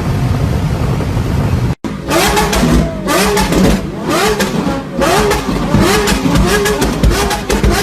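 A car's exhaust: a steady engine drone, then, from about two seconds in, the engine revved in quick repeated blips, each one rising and falling in pitch, with sharp crackling pops between the revs.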